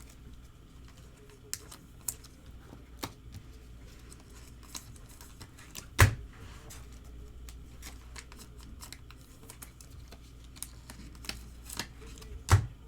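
Chrome trading cards being handled at a table: irregular light clicks and taps as cards are flipped and set down, with two louder knocks, one about halfway through and one near the end.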